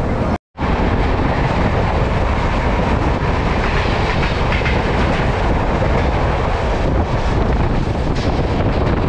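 Express passenger train running along the track: a steady, loud rumble of wheels on rails. It cuts to silence for an instant about half a second in.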